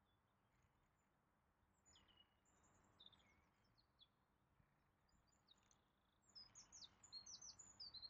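Faint birdsong: scattered short, high chirps and quick downward-sweeping notes, becoming busier in the last two seconds.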